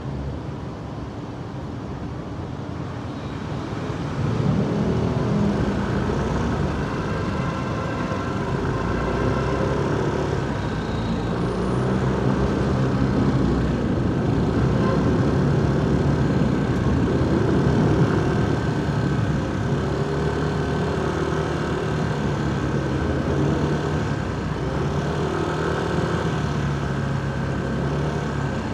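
Motorcycle engine running on the move amid road traffic, getting louder about four seconds in, its pitch rising and falling with the throttle.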